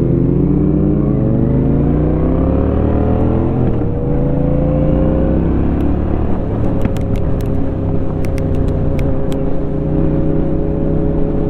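Honda Shadow 750's V-twin engine through its Rinehart aftermarket exhaust, pulling up through a gear with its pitch rising for about five seconds, then settling into a steady cruise. A scatter of sharp clicks comes in the middle.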